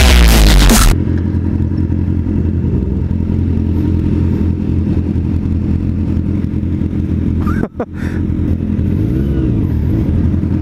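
Music cuts off about a second in, giving way to a 2003 Kawasaki ZX-6R 636 inline-four running steadily while riding. Near the end the sound drops out briefly, then the pitch rises and falls once.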